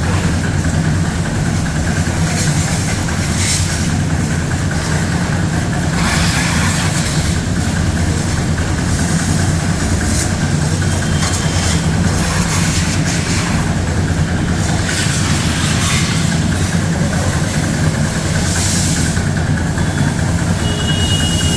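A pressure washer's motor runs with a steady hum, broken every few seconds by short bursts of hissing spray.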